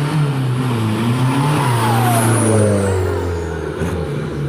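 Off-road race vehicle's engine running and revving, its pitch rising and falling. A whine falls steadily in pitch through the middle.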